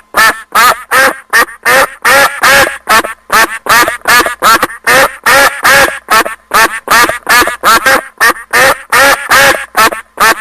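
Domestic duck quacking over and over, short loud quacks at about three a second.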